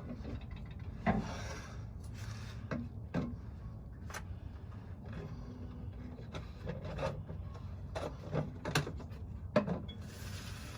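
Handling noises: rubbing and rustling with about a dozen scattered light knocks and clicks over a low steady hum.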